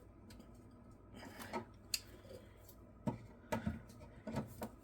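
Faint clicks and rubbing of metal parts being worked by hand, as a bent lever on an old lawn mower is forced back into shape, with one sharper click about two seconds in.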